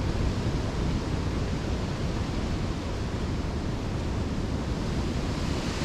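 Strong gusty wind: a steady rushing noise, with wind buffeting the microphone.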